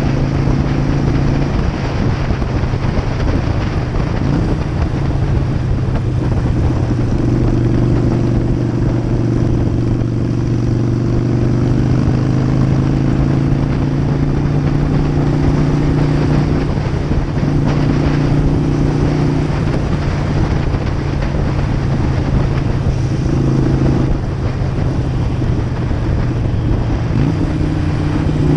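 Harley-Davidson V-twin motorcycle engine running at a steady cruise, its note shifting slightly in pitch a few times, under a broad rush of wind and road noise.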